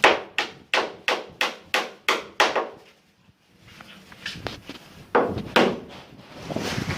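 Hammer blows on wood, about three a second in a quick run of some eight strikes, then a short pause and two more heavy blows near the end.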